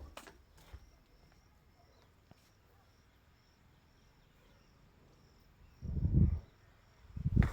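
Faint insect chirping, a short high note repeating at a steady pace, over quiet outdoor background. A louder, low, noisy sound breaks in about six seconds in and again near the end.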